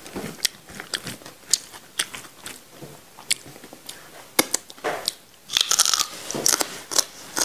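Close-miked eating: wet chewing with scattered sharp crunches, and a louder run of crunching near the end as a raw green vegetable is bitten and chewed.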